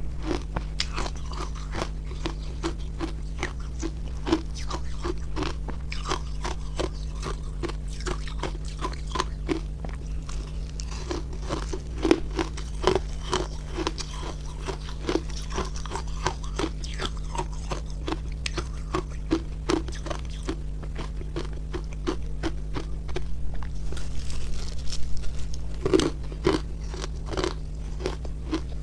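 Close-miked biting and chewing of refrozen milk-and-matcha ice: a rapid, continuous run of crisp crunches and cracks, with louder bites about twelve seconds in and near the end, over a low steady hum.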